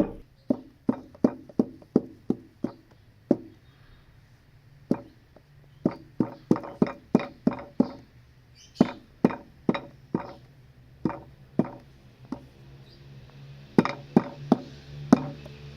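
A run of sharp knocks at an uneven pace, about two or three a second, with a short pause about four seconds in.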